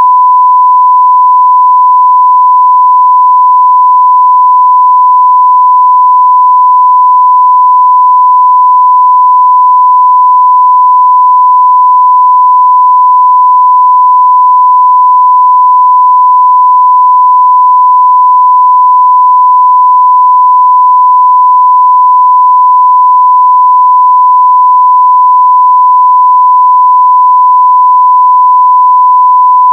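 Continuous 1 kHz sine-wave test tone at full level, a single steady pure pitch with no change.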